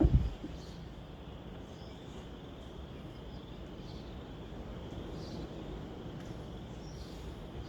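A single sharp shot from a pneumatic brad nailer driving a temporary brad into wood, right at the start, followed by steady background noise with faint high insect chirring.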